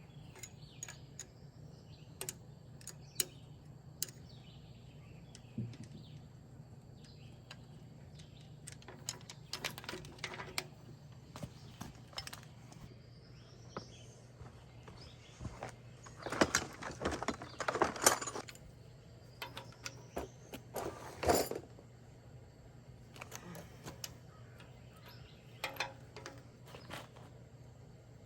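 Scattered metallic clinks and clatters of hand tools and engine parts being handled, with a busier run of clattering past the middle and one sharp clank a few seconds later.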